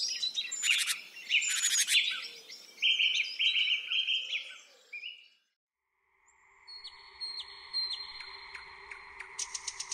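Songbirds singing, a run of short chirps and repeated phrases that stops about five seconds in. After a brief silence a different, steadier sound starts: held tones with short chirps, then a fast run of clicks near the end.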